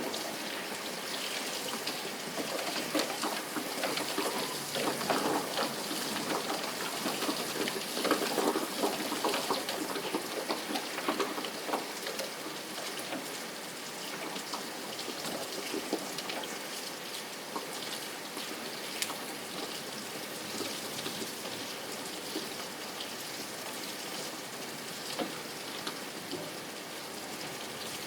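Steady rain falling, a dense patter of drops over a constant hiss, heavier for several seconds in the first half before easing to an even shower.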